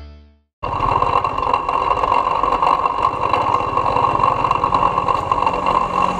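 A small engine, typical of a motorcycle, cuts in about half a second in and runs steadily with a rapid, even pulse.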